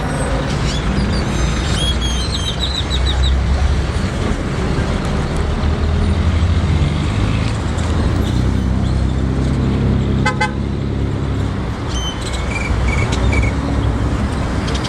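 Steady city traffic rumble with a vehicle horn tooting, while small birds chirp and trill above it in short bursts, with a quick rattling call about ten seconds in.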